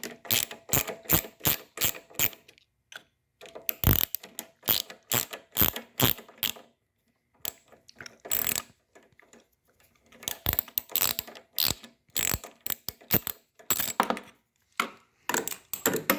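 Hand ratchet with a 5/16 socket clicking in quick runs of strokes, with short pauses between runs, as a bolt on a lawn mower engine is turned by hand.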